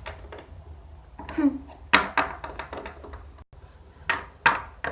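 Light taps and clacks of small plastic toy figures being set down and moved on a hard surface, several scattered knocks.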